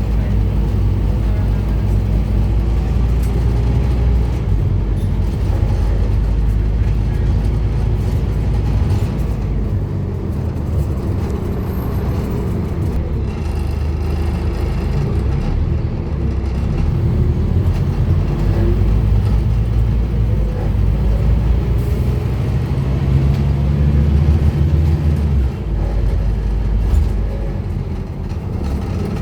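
Scania N230UD Omnicity double-decker bus's engine and driveline running under way, the engine note rising and falling as it pulls and eases off.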